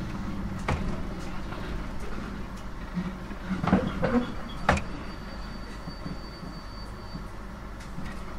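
JR 719 series electric multiple unit heard from on board while running: a steady rumble and motor hum, with a few sharp clacks of the wheels over the rails and a short burst of squeaky knocks near the middle.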